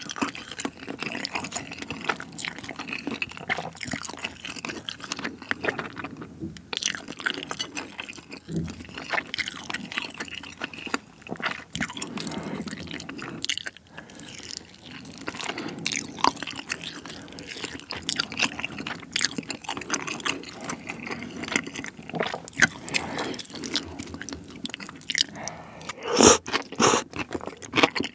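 Close-miked eating of spicy steamed monkfish with bean sprouts: wet chewing with crunching and many sharp mouth clicks throughout. Near the end the sound grows louder as strands are sucked into the mouth.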